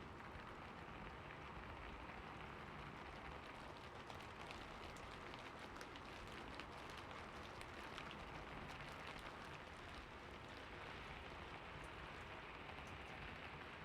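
Steady rain falling, a dense even patter with many separate drops ticking through it.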